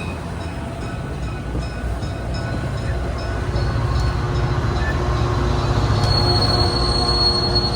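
Diesel commuter train approaching, its low engine rumble growing louder, with a thin high squeal of wheels or brakes coming in about halfway and strengthening near the end.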